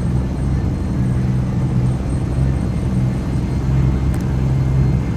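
Car engine running at a steady idle with a deep low rumble that pulses slightly, without revving.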